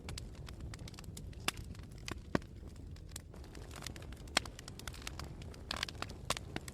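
Wood fire crackling, with sharp pops and snaps at irregular moments over a low steady rumble. A brief hiss comes near the end.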